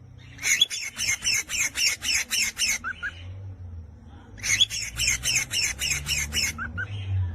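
A songbird sings a fast, even series of repeated notes, about five a second for some two and a half seconds, ending in two short lower notes. It sings the same phrase twice.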